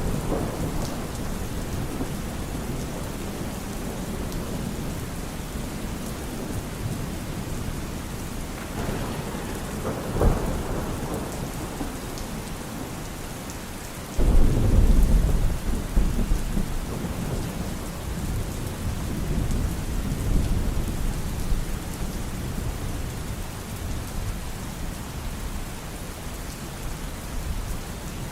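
Steady rain with thunder: a low rumble at the start, a sharper crack about ten seconds in, then a sudden loud thunderclap about halfway through that rolls and rumbles away over the next several seconds.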